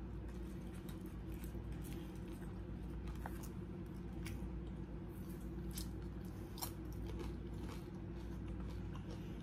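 People chewing with their mouths close to the microphone, with many short wet clicks and smacks scattered throughout. A steady low hum runs underneath.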